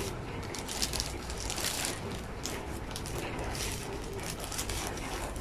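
Soft, scattered rustling and crinkling of plastic packaging being handled, in short irregular bursts.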